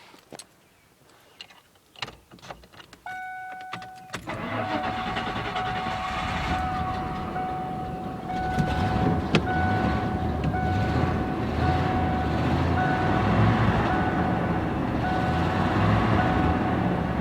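A 1996 Ford Bronco's V8 starting about four seconds in after sitting unused for years, then running steadily with an uneven low pulse, an engine that has an exhaust leak. A dashboard warning chime sounds as a steady tone just before the start, then beeps at an even pace while the engine runs.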